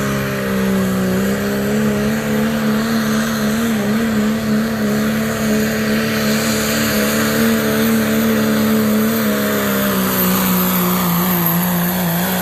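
Turbo-diesel pickup's engine at full throttle under heavy load, pulling a weight-transfer sled in a 2.6-inch-turbo pulling class. The engine note holds steady, then sags slightly in pitch near the end as the truck bogs down before picking up again.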